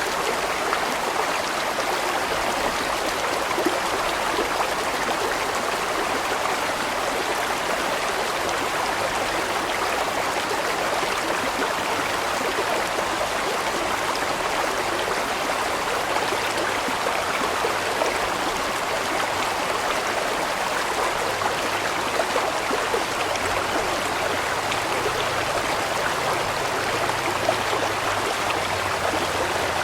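Large stream of water flowing steadily, an even, unbroken sound of running water.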